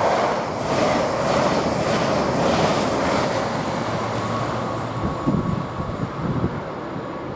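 LNER Class 800 Azuma train going by at the platform: a loud rush of wheel and running noise with regular pulses as the carriages pass, fading over the last few seconds as it draws away.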